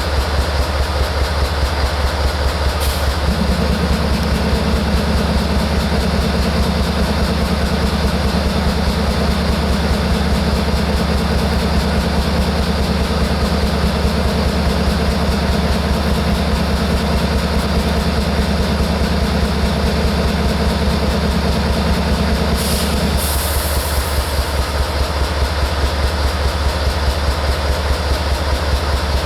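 Diesel locomotive engine idling with a steady low hum. A second, higher steady tone comes in about three seconds in and cuts off about twenty seconds later.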